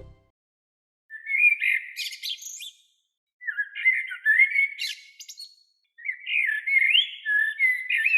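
A songbird singing three warbling phrases of quick, sliding high notes, each about two seconds long, with short pauses between them.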